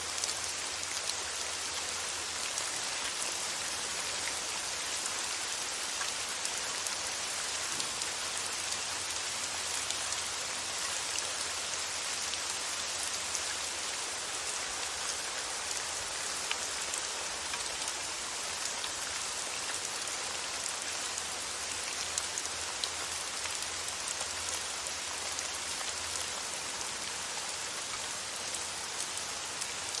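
Steady rain: an even hiss of falling rain with faint, scattered drop ticks, unchanging throughout.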